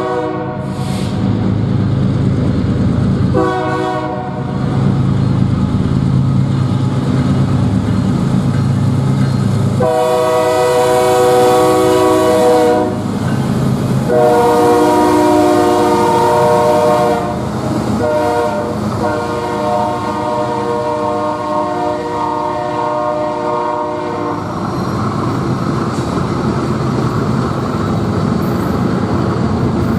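Diesel locomotive's multi-chime air horn sounding the grade-crossing signal: long, long, short, long. Before it there is one short blast, and under it the low rumble of the passing train.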